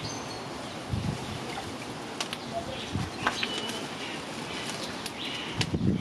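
Birds chirping over a steady outdoor background, with a few sharp clicks and soft low thumps.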